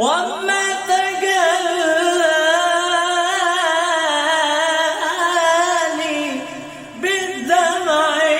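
Male singer holding a long, ornamented melismatic vowel line with heavy vibrato in Arabic vocal style. The phrase fades a little about six seconds in, and a new sung phrase starts near the end.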